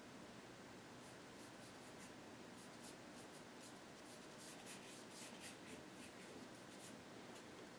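Faint brush strokes: a paintbrush brushing acrylic paint onto the painting in a run of short, quick strokes, busiest in the second half.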